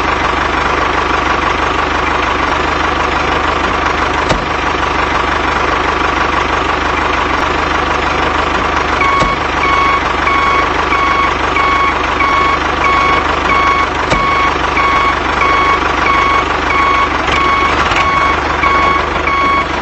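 A vehicle running steadily, and from about halfway a reversing alarm beeping repeatedly, a little over once a second.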